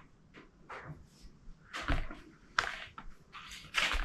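Workbench handling noises: a string of short scrapes and knocks as parts and tools are moved and set down, with a dull thump about two seconds in and another near the end.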